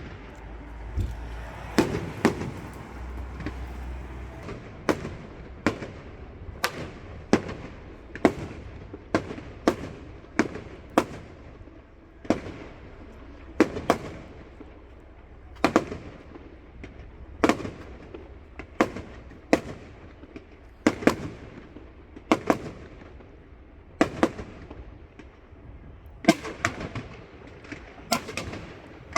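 Fireworks display: a string of sharp bangs and crackles about once a second, with a quicker flurry of several bangs near the end.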